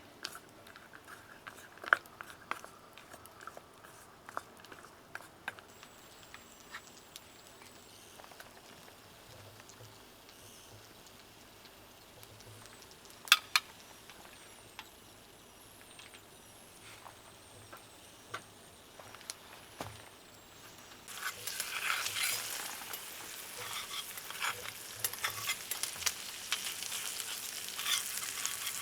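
Scattered clicks and taps of cooking utensils over a quiet background, then, about 21 seconds in, food suddenly starts sizzling and crackling as it fries in a hot pan.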